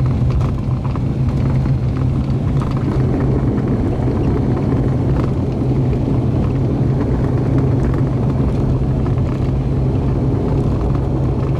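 Cabin noise of an ATR 42-600 turboprop: a steady, loud, low propeller and engine drone.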